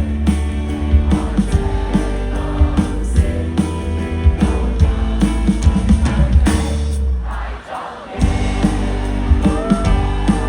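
Live band playing a passage between sung lines, with drum kit, bass and guitar. The music drops out briefly about three-quarters of the way through, then the full band comes back in.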